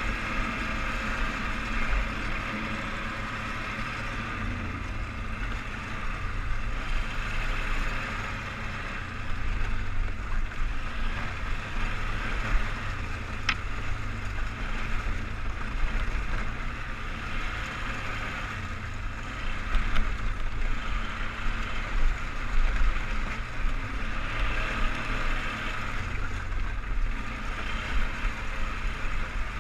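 2003 Polaris Sportsman 500HO 6x6 ATV engine running steadily under way, its level rising and falling a little, with one short sharp tick about halfway through.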